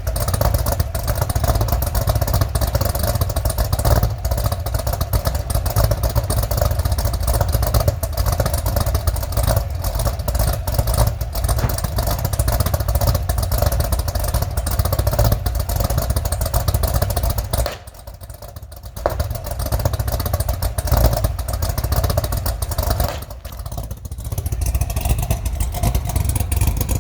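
Chevrolet Camaro SS V8 with an aftermarket GPI SS3 camshaft, running at idle after a cold start with a pulsing, lumpy cam idle. Its sound dips briefly twice, about two-thirds of the way in and again near the end.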